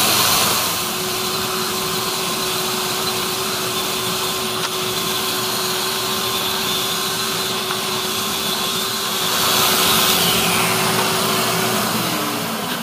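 Festool Rotex sander running on a Baltic birch plywood panel, with a dust-extraction vacuum drawing through its hose: a steady whirring hum with a hiss. The motor winds down near the end.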